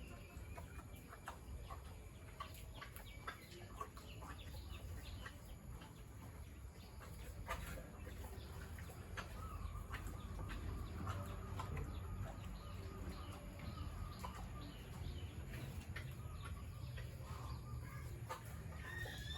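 Chickens clucking, with scattered short clicks and knocks over a steady low rumble.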